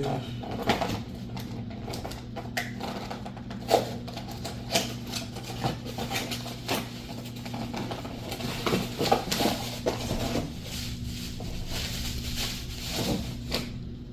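Hand-handling of packaging and parts: rustling and crinkling with scattered sharp clicks and knocks, over a steady low hum.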